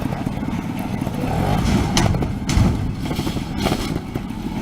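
Trials motorcycle engine running at low revs while the bike bounces down a set of steps, with several thuds as the front tire hits each step.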